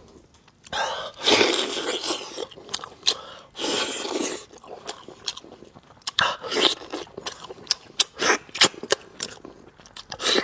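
Close-miked eating sounds: biting, chewing and gnawing on braised meat. There are a few longer wet bursts in the first half and many short, sharp mouth clicks and smacks in the second half.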